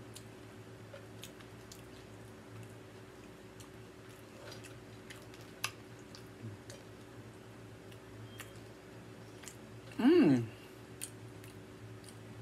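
Close-miked chewing of nachos made with tortilla chips: faint, scattered crunches and clicks over a low steady hum. About ten seconds in there is a short hum of the voice, the loudest sound.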